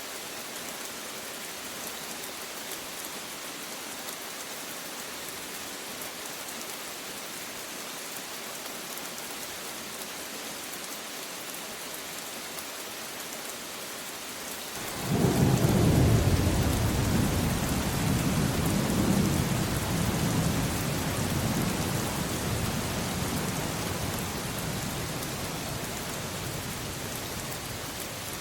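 Steady rain falling, with a clap of thunder about halfway through: a sudden deep rumble that peaks, rolls on and slowly dies away under the rain.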